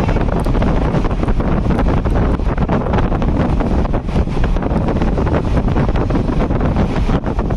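Passenger train running, a loud steady rumble with constant rattling, and wind buffeting the microphone.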